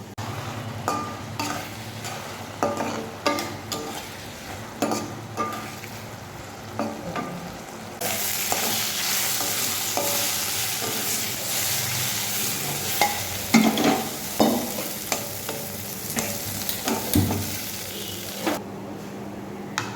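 A spatula stirring and scraping greens in a frying pan, with repeated knocks against the pan. From about eight seconds in, loud hot-oil sizzling starts abruptly and runs for about ten seconds, then cuts off.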